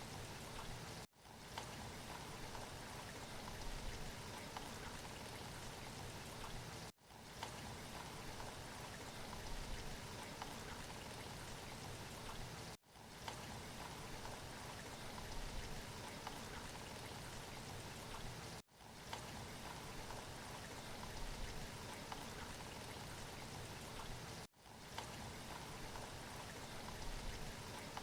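Steady rain as a recorded loop: an even hiss that cuts out briefly and fades back in about every six seconds.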